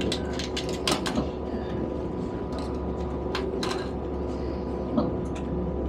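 Inside a moving train carriage: a steady low rumble from the train running on the rails, with a faint steady whine and scattered sharp clicks and rattles, the loudest about a second in and near five seconds in.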